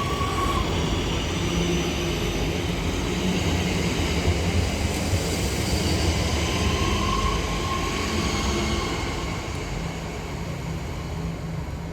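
Train running along the platform, a steady rumble with faint whines layered over it, easing slightly near the end.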